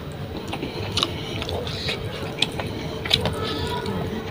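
Close-up eating sounds of rice and fish curry eaten by hand: chewing and lip smacking, with several sharp wet mouth clicks. A faint steady hum comes in about halfway.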